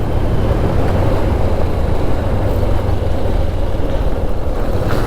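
Motorcycle engine running steadily while riding along, with a constant low drone and road and wind rush on the microphone.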